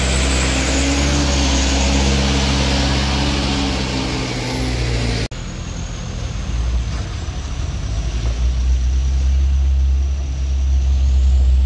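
Heavy vehicle engines running on the road, a low steady drone with hiss above; about five seconds in the sound breaks off abruptly and a different low engine sound takes over, swelling near the end.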